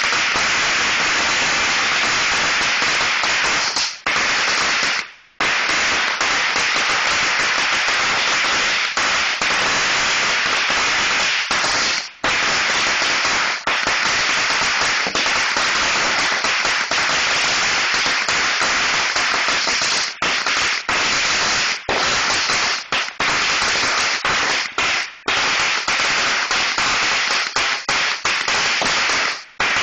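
A long string of Black Cat firecrackers going off in a rapid, unbroken crackle of pops. It drops out briefly a few times, most clearly about five seconds in and again near the end.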